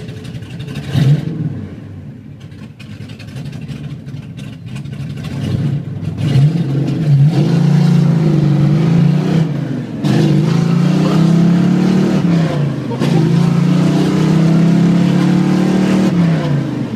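1964 Plymouth Savoy's engine heard from inside the cabin. After a quick rev about a second in, from about six seconds in it pulls hard at full throttle, its revs climbing and then dropping at each gear change, about every three seconds, until the throttle lifts near the end.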